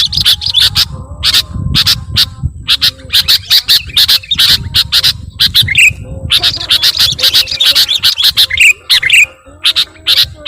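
Small birds chirping in a fast, continuous run of short, high, sharp calls, several a second, with brief lulls, like nestlings begging to be fed.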